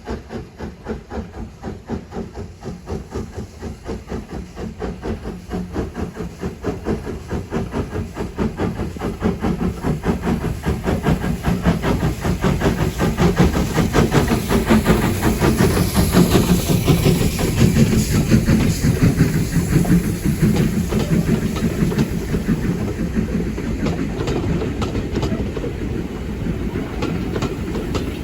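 LYR steam locomotive 11456 working a train past, its exhaust chuffing in regular beats that quicken and grow louder as it nears, loudest about halfway through, followed by the train rolling by with a clickety-clack over the rail joints.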